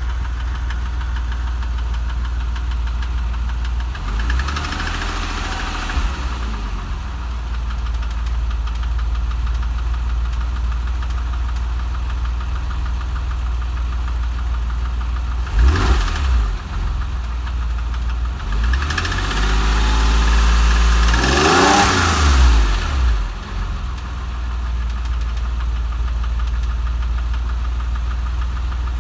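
Porsche 996's 3.4-litre flat-six idling with a ticking noise from the engine. It is revved briefly a few times, about four seconds in, once near the middle, and again about two-thirds of the way through, each time settling back to idle.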